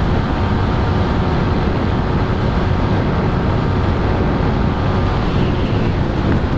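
Yamaha R15 v3's single-cylinder engine running at high, steady revs in top gear through its modified stock exhaust, near top speed, with wind rushing over the microphone.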